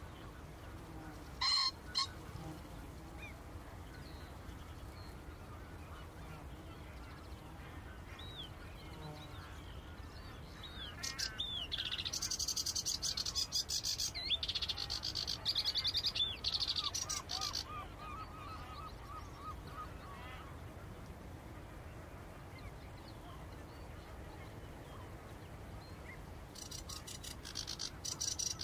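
Birds of the Wadden Sea mudflats calling. Two short loud calls come about a second and a half in, then scattered faint calls. A long burst of rapid, high twittering follows in the middle, then a run of lower repeated notes, and another high twittering burst near the end, all over a steady low background rumble.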